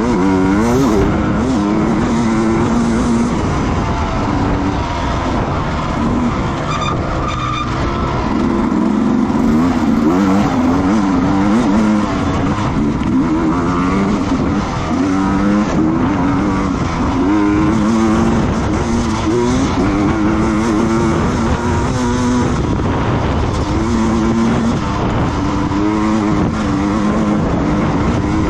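Racing motorcycle engines running hard, the engine note climbing and dropping in pitch over and over.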